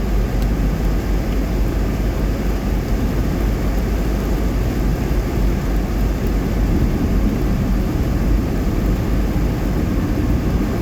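Steady road noise inside a moving car: tyres running on a wet highway under a constant low rumble.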